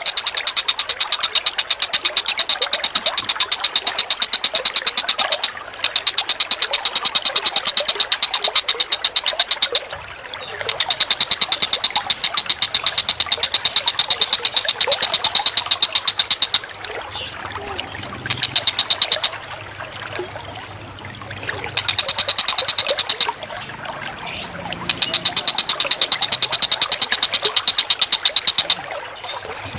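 Recorded bird calls: a very fast, rattling string of sharp, high notes, repeated in several bouts of a few seconds each with short breaks, over a steady background of running water.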